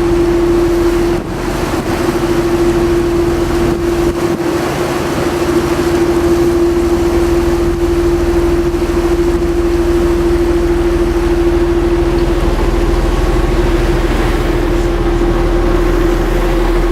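Tour boat's engine running steadily under way, a constant hum with a steady whine over the rush of water and wind.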